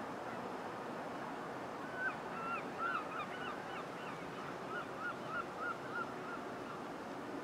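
A bird calling: a run of short, repeated calls, about three a second, from about two seconds in to about six seconds. Beneath them, the steady distant sound of an approaching Class 66 diesel locomotive hauling a freight train.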